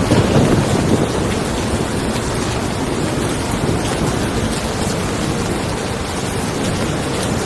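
Steady rain falling on a car, with thunder rumbling louder in the first second or so before fading back under the rain.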